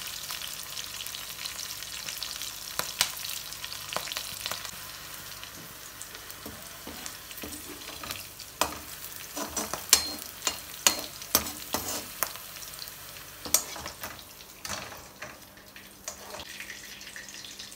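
Green chillies and curry leaves frying in hot oil: a steady sizzle with many sharp pops and clicks, thickest in the middle, the sizzle thinning toward the end.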